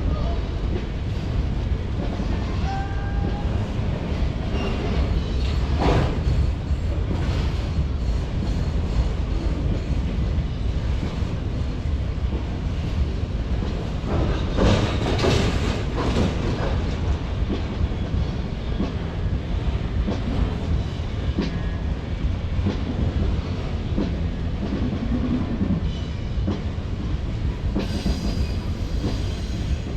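Freight train rolling past, its cars rumbling steadily with wheels clattering over the rails. There are a few louder clanks about six seconds in and around fifteen seconds in.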